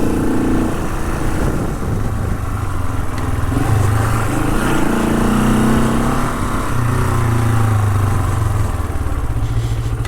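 Honda CL450 parallel-twin motorcycle engine running under way, its pitch rising and falling as the throttle is opened and eased.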